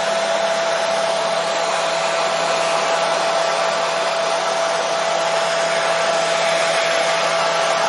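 Hair dryer running steadily: a constant rushing hiss with a single steady whining tone held through it, never changing.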